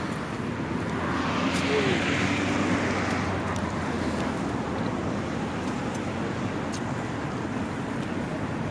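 Car engines and road traffic noise, with one car passing close and growing louder about two seconds in before easing off.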